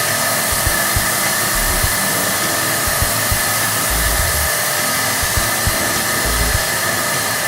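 Electric HVLP turbine paint sprayer running steadily while spraying Plasti Dip.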